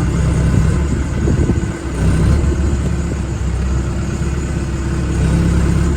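John Deere 410J loader backhoe's diesel engine running steadily, with a brief dip in level a little under two seconds in before it picks back up.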